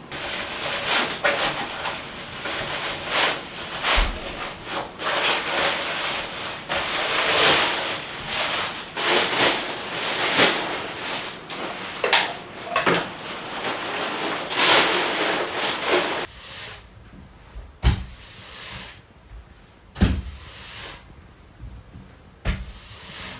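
Rustling and scraping of gear being handled, many quick rubbing strokes one after another, then several sharp knocks and thumps on wood in the last few seconds.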